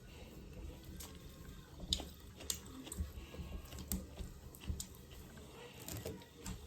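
Close-up eating sounds of mutton curry and rice: soft chewing with scattered small sharp clicks, about one a second.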